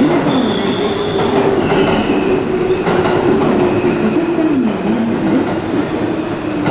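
JR West electric commuter train running at the platform: a loud wavering mechanical tone that dips and rises, with thin high-pitched wheel squeals coming and going.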